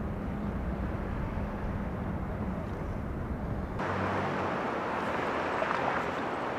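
Steady outdoor machinery noise: a low rumble with a steady hum, which changes abruptly about four seconds in to a brighter, hissier noise.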